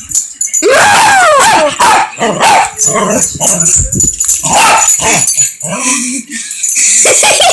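Dog barking loudly and repeatedly, a long first bark followed by a rapid run of shorter barks and yips.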